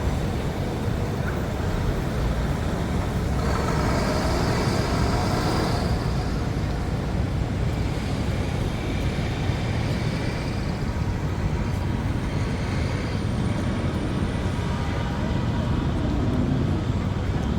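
Steady city road traffic, a continuous low rumble of cars and buses, with voices of passers-by mixed in.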